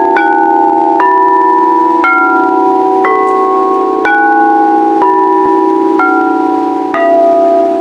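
Singing bowls struck one after another about once a second, each a different pitch, their notes ringing on and overlapping above a steady low hum with a slow wobble.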